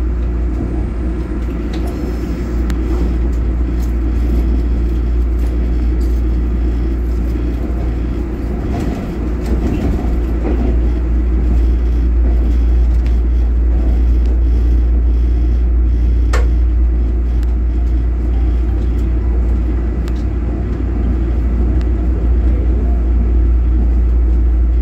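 Steady low rumble inside the passenger car of a Taiwan Railways EMU3000 electric multiple unit as it runs, with a brief click about two-thirds of the way through.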